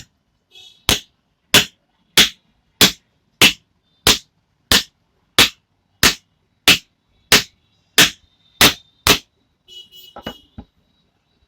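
Light plastic hammer tapping a new ball bearing into a ceiling fan's housing: about fifteen sharp, even taps, roughly one every two-thirds of a second, as the bearing is driven home. Some faint clatter follows near the end.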